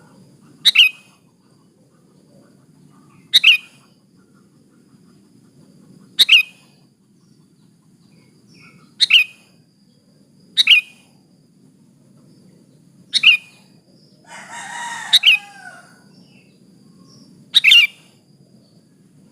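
Female sooty-headed bulbul (kutilang) giving short, sharp calls, eight in all, each a quick downward sweep, spaced two to three seconds apart: a female's call used as a lure to set a male singing. A longer, lower call sounds once about fourteen seconds in.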